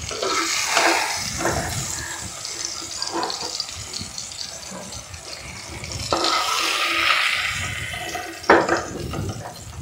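Hot mustard oil sizzling in a frying pan as fried ash-gourd pieces are lifted out with a metal spatula and dropped into a pan of wet mustard-paste gravy. A few short knocks of the spatula against the pans; the hiss grows louder about six seconds in.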